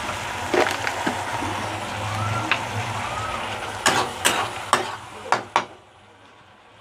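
Sauce frying and sizzling in a pan as it is stirred, with a utensil knocking against the pan about six times, mostly in a quick run past the middle. The sizzle then drops away near the end.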